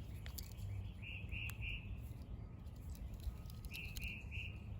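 A bird calling faintly in the background: a phrase of three short, evenly spaced notes, given twice, with a few faint clicks among them.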